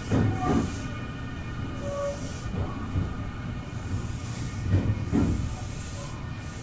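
Nankai electric train rolling slowly into a station platform, heard from the driver's cab: a low running rumble with pairs of wheel knocks over rail joints, three pairs in all. A faint steady whine runs beneath it.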